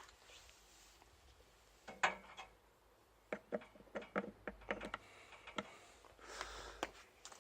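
A run of light clicks and knocks, about a dozen over two and a half seconds, with a short rustle before and after them.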